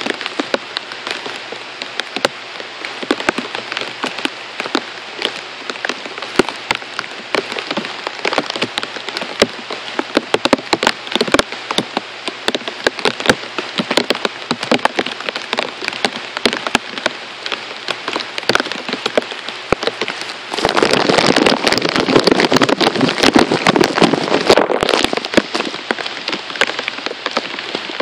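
Heavy rain falling, with a dense, uneven patter of close drops hitting hard. About twenty seconds in the downpour grows louder for five or six seconds, then eases back.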